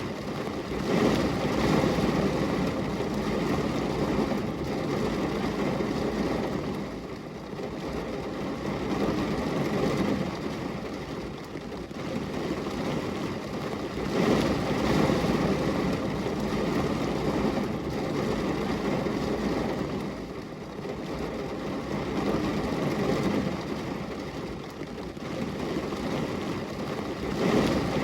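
Steady rain falling on a glass window, a dense rushing noise that swells and eases in slow waves every several seconds.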